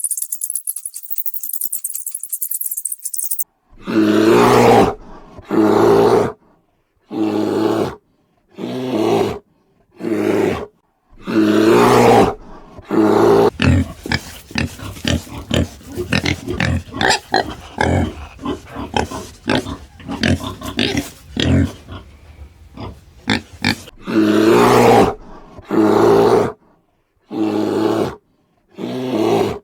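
Donkey braying: a long series of loud, hoarse calls of about a second each, with a stretch of rapid shorter heaves in the middle. For the first three and a half seconds there is a high jingling rattle instead, which cuts off suddenly.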